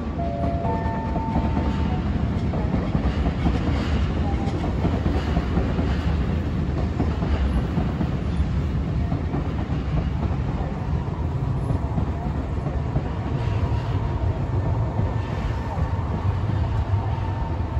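Nankai electric train running along the tracks below, a steady rumble of wheels on rail with some clickety-clack and a faint motor whine.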